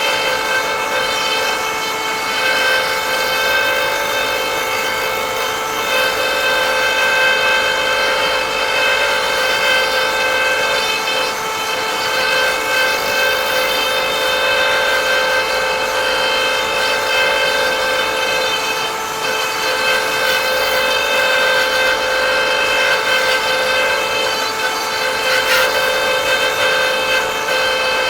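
A power tool running steadily with a constant whine while it cuts into wood, as in cutting threads on a lathe with a threading jig.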